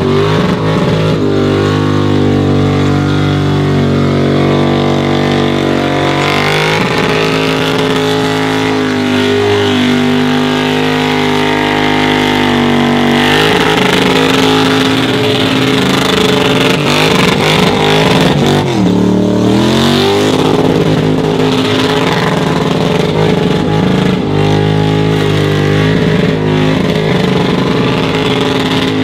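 Supercharged car engine held at high revs during a burnout, its rear tyres spinning and smoking. The revs drop briefly about two-thirds of the way through, then climb straight back up.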